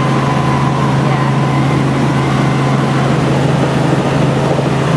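Helicopter in flight: a steady low drone from the rotor and engine, with a thin, constant high whine over it.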